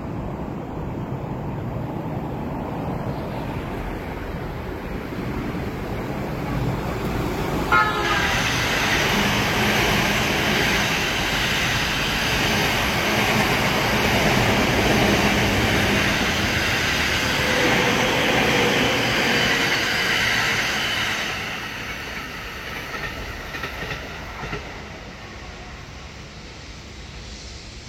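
Running noise of an electric commuter train heard from on board: a steady rumble that turns suddenly louder and harsher about eight seconds in, stays so for some thirteen seconds, then eases off.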